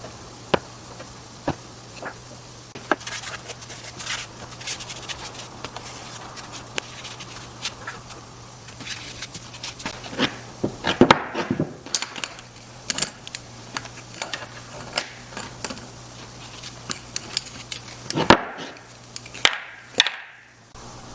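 Wooden workpieces being handled at a workbench: irregular taps, clicks and knocks of wood on wood, over a steady low hum, with a few louder knocks near the end.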